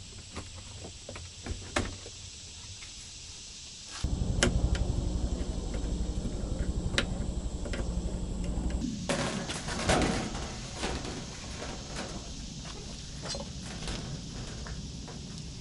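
Scattered knocks and clicks of hands and tools working on a camper's aluminum siding. About four seconds in, a steady low machine hum starts suddenly and runs under further knocks, turning noisier about halfway through before easing off.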